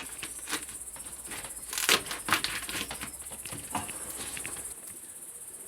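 Crickets chirring steadily in a high, even chorus, with a few scattered small clicks and knocks in the first half.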